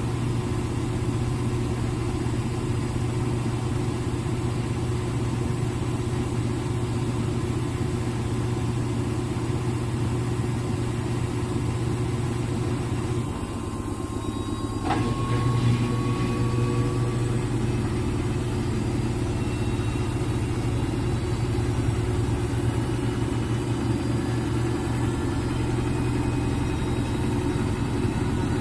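Front-load washing machine in its spin cycle: a steady motor-and-drum hum. About halfway through the hum drops briefly, there is a sharp click, and it picks back up with a faint rising whine.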